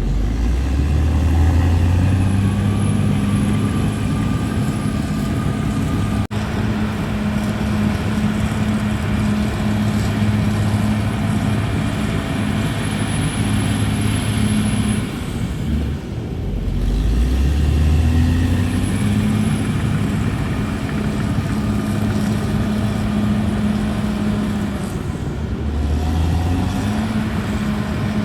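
CAT D6R bulldozer's diesel engine working under load. Its pitch sags and climbs back up three times: near the start, about 16 seconds in and about 25 seconds in.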